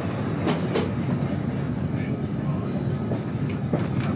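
Heritage railway train running along the track, heard from on board: a steady low rumble with two pairs of sharp clicks as the wheels cross rail joints, one pair about half a second in and another near the end.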